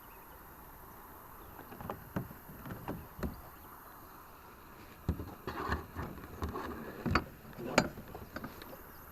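Scattered clicks and knocks of gear being handled aboard a fishing kayak. They come in two groups, the second, starting about five seconds in, busier than the first.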